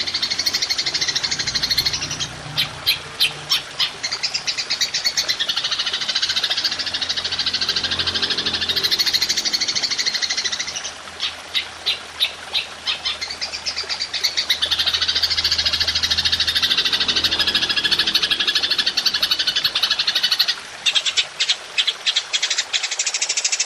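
A belalang emas (golden grasshopper) insect call, used as bird-training audio: a loud, shrill, continuous buzz, broken three times by a run of rapid separate chirps, about four or five a second.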